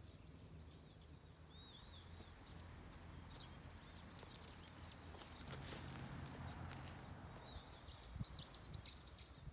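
Small birds chirping repeatedly over faint outdoor background noise, with a few sharp clicks about six seconds in.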